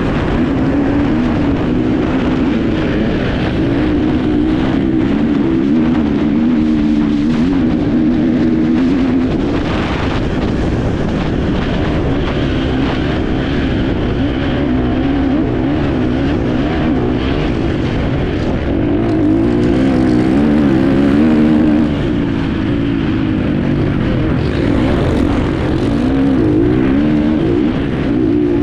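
Enduro motorcycle engine heard on board while riding, its revs constantly rising and falling with throttle and gear changes, under heavy wind and riding noise.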